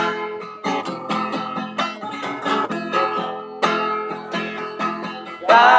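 Instrumental break in a song: a guitar picking a rhythmic accompaniment of plucked notes, with a steady beat.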